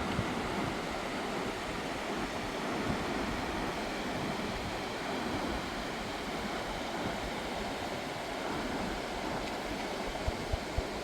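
A swollen, fast-flowing river rushing steadily. Three short low thumps come close together near the end.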